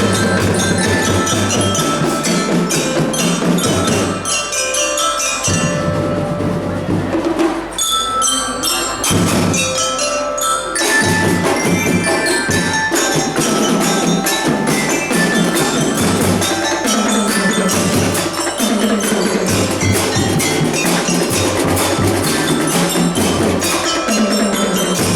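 School drum band playing: a bright glockenspiel-like bell lyra melody over wood block and drums, with dense struck notes. The low drums drop back briefly twice in the first half while the bells carry on.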